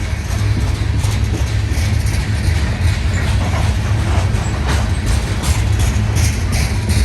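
CSX coal train rolling past: a steady low rumble with repeated clicks and clacks, heavier in the second half, from the wheels running over the rail.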